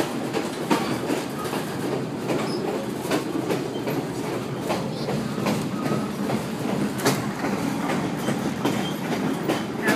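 Passenger coach of an excursion train rolling along the track, heard from on board: a steady rumble with irregular sharp clicks and knocks from the wheels running over the rail joints.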